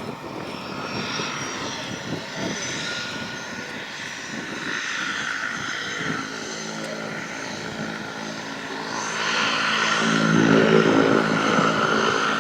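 Floatplane's propeller engine running, growing louder about three-quarters of the way in.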